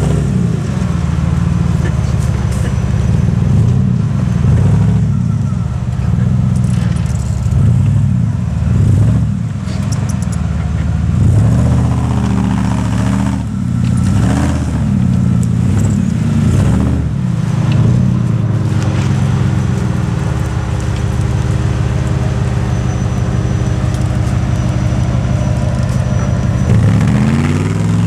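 Off-road vehicle engine revving up and down again and again as it works under load, settling to a steadier run for several seconds in the later part before revving up once more near the end.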